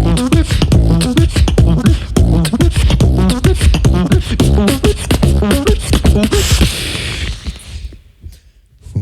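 Vocal beatboxing: rapid mouth-made drum hits and clicks under a bending sung line, swelling into a hissing cymbal-like wash about six and a half seconds in, then dying away almost to nothing near the end.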